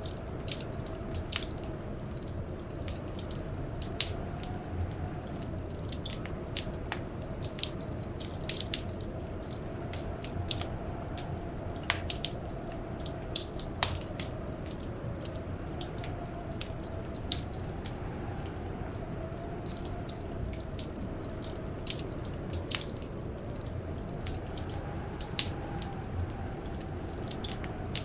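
Wood fire crackling, with frequent irregular sharp pops over a low steady rumble. A faint blizzard wind howls behind it, slowly rising and falling in pitch.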